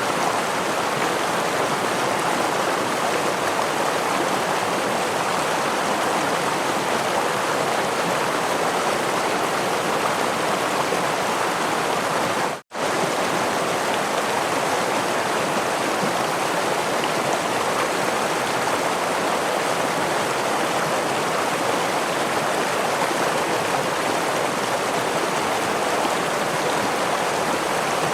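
Stream water rushing over a small waterfall, a steady even splashing rush, broken about halfway through by a momentary gap of silence.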